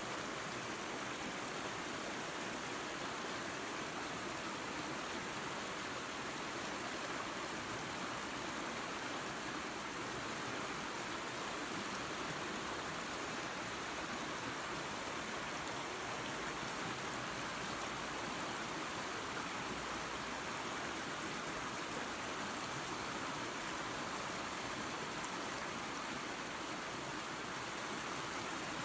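Waterfall and creek water rushing and splashing in a steady, unbroken rush.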